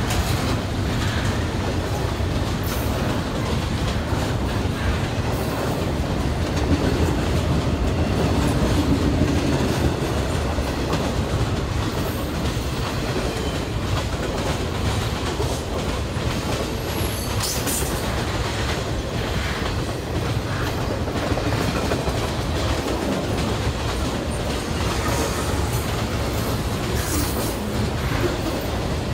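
Intermodal freight train cars rolling past close by: a steady noise of steel wheels on the rails, with scattered clicks.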